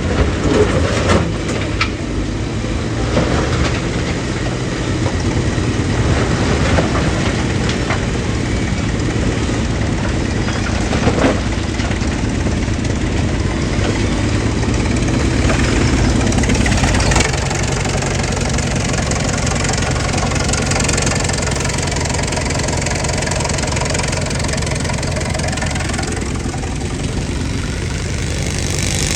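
Old air compressor running steadily. Its low running sound thins out about two-thirds of the way through.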